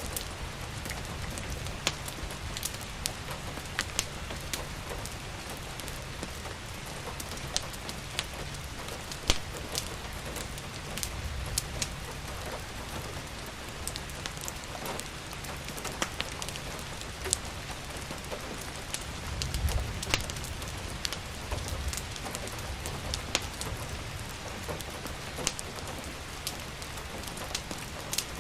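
Steady rain mixed with a crackling wood fire: sharp, irregular crackles and pops over an even hiss of rain. A low rumble swells briefly about twenty seconds in.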